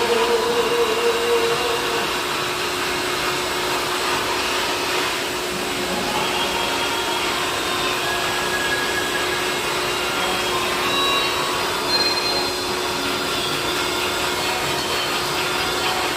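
Vacuum cleaner running steadily, with an even rushing noise and a steady motor whine, used to clean a billiard table.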